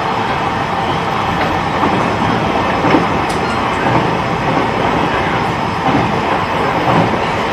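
E129 series electric train running at speed, heard from inside the car: a steady rumble of wheels on rail with a few soft knocks of the wheels over rail joints.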